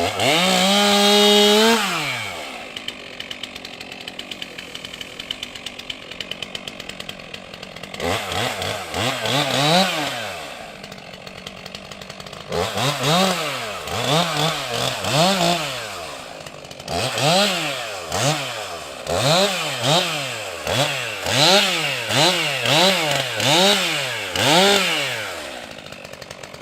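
Stihl MS 362 C-M two-stroke chainsaw held at high revs for about two seconds, then dropping to idle. From about eight seconds in, it is repeatedly throttled up and let fall back, in quick blips about one a second toward the end.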